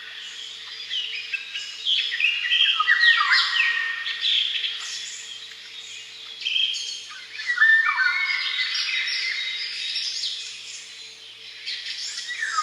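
Songbirds singing: bursts of rapid chirping and warbling phrases every few seconds, the loudest about three and eight seconds in.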